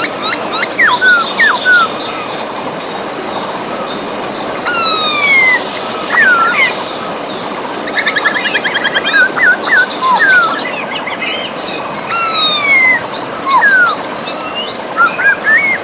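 Several birds singing, with whistled down-slurred notes, short upward chirps and a rapid trill about halfway through, over the steady rush of a river.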